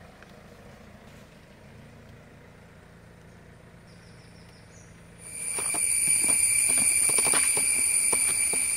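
A faint low hum, then about five seconds in a loud, steady chorus of insects with several high shrill tones cuts in abruptly, with a few short knocks among it.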